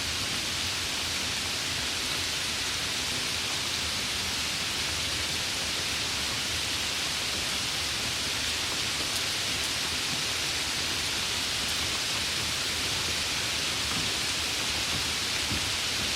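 Steady, even rain falling, a dense hiss with a few faint drop ticks.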